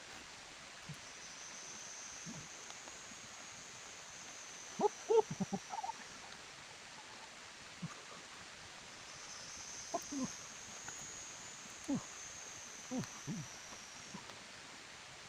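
Short animal calls, each sliding down in pitch, coming in small groups: a cluster about five seconds in and more between ten and fourteen seconds. Under them runs a faint steady hiss, with a thin high drone that swells twice.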